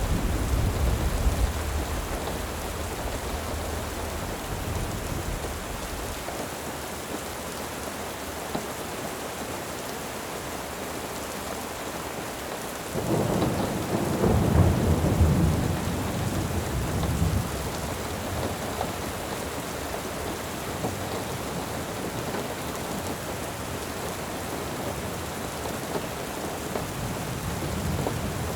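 Steady rain with rolling thunder: a low rumble fading over the first few seconds, then a louder roll of thunder starting suddenly about halfway through and dying away over several seconds.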